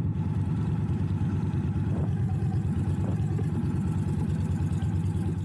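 Indian Scout Bobber motorcycle's V-twin engine running steadily, a dense low pulsing that holds an even pace.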